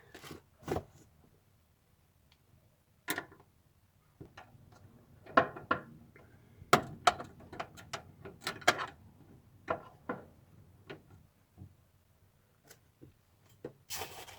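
Irregular clicks and small metallic knocks of hand tools undoing the 8 mm nuts that hold the in-tank fuel pump assembly, with short quiet gaps between them.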